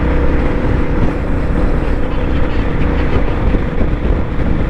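Royal Enfield Bullet 350's single-cylinder engine running steadily under way, with wind rushing over the microphone.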